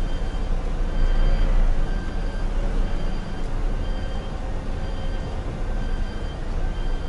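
Concrete mixer truck's diesel engine running with a steady low rumble, while a reversing alarm beeps faintly a little more than once a second: the truck is backing up.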